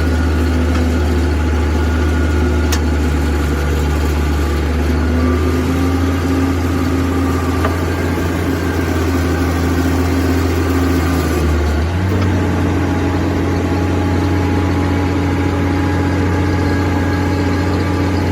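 Bulldozer diesel engine running steadily at idle, its speed stepping up slightly about twelve seconds in.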